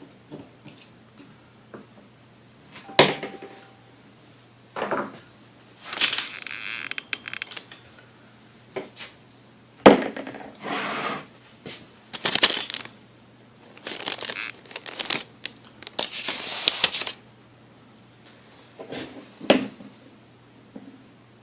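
Metal tools and parts clinking, tapping and scraping on a vintage Hamilton Beach Model D mixer during disassembly: irregular sharp knocks with short scraping rasps between them.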